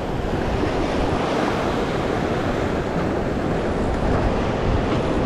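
Ocean surf washing against a rock jetty as a steady rush, with wind noise on the microphone.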